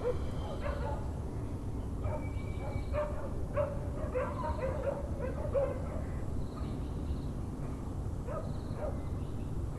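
Dogs barking and yelping in the distance: a run of short barks in the middle, a few scattered ones later, over a steady low background rumble.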